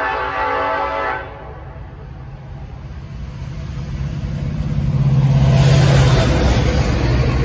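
Norfolk Southern freight train's horn sounding and cutting off about a second in; then the diesel locomotives' engines grow louder as the lead unit approaches and passes close by, with steel wheels rushing on the rails from about halfway through.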